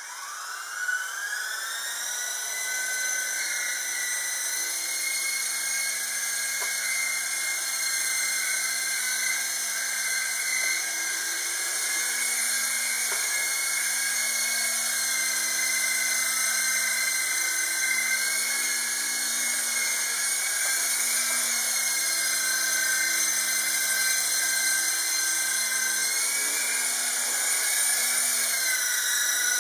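Electric motor and rotors of an S032G remote-control helicopter spinning up with a rising whine, then running at a steady high pitch; the pitch dips and recovers near the end.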